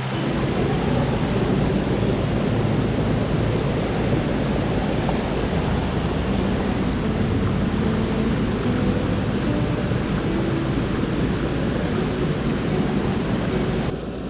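Steady rushing of the Teesta River's fast-flowing water, a loud even roar.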